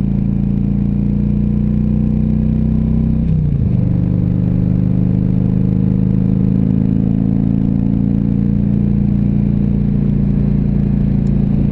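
Harley-Davidson Ultra Classic Electric Glide's V-twin engine running at a steady cruise, with a low rumble of road and wind beneath it. Its pitch dips briefly about three and a half seconds in, then holds steady again.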